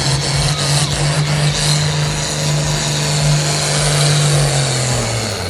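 Pulling truck or tractor engine running hard at a steady high pitch with loud exhaust noise as it drags the sled; near the end the pitch drops as it comes off the throttle.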